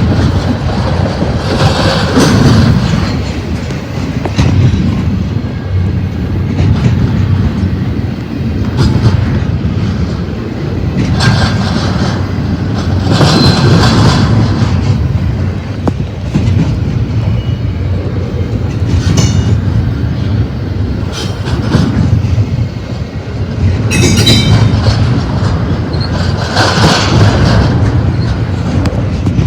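Double-stack container freight train rolling past: a steady rumble with wheels clattering over the rail joints, swelling every few seconds, and a couple of brief high wheel squeals.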